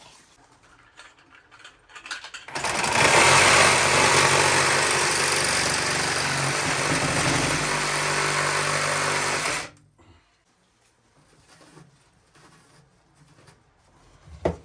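Power saw cutting a length of PVC pipe, running steadily for about seven seconds from about two and a half seconds in, then stopping suddenly.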